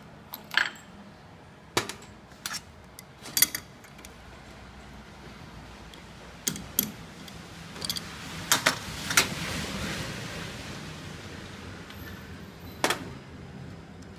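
Irregular sharp metal clinks and knocks from the mould parts and tools of a DPP88 blister packing machine being handled during disassembly, over a low steady machine hum. A soft hiss swells and fades around the middle.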